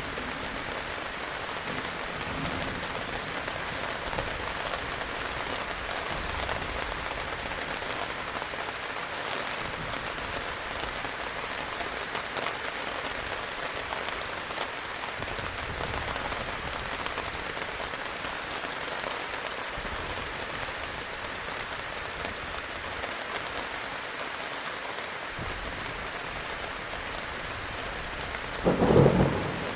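Heavy rain falling steadily, with a loud clap of thunder near the end.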